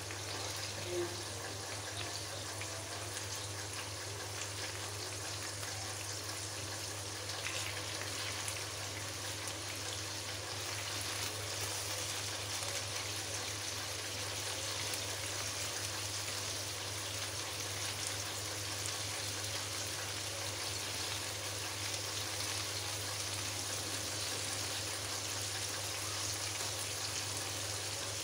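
Minced-meat patties sizzling steadily in shallow oil in a frying pan, halfway through cooking, with light taps of tongs against the pan as they are turned over.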